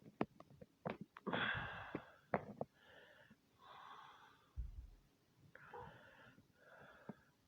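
Soft breathing close to the microphone, coming about once a second, with several sharp clicks and taps in the first two and a half seconds.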